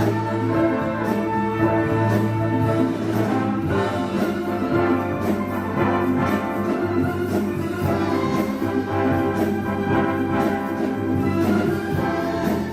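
Symphony orchestra playing continuously, with brass sounding among the strings.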